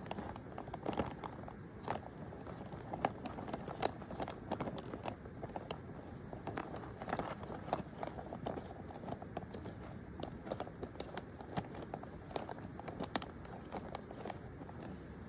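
Plastic food packaging crinkling and crackling as it is handled, in a run of irregular small crackles.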